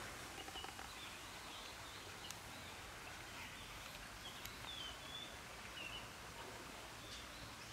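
Quiet woodland ambience with a few short, high bird chirps scattered through it, one slightly longer call near the middle.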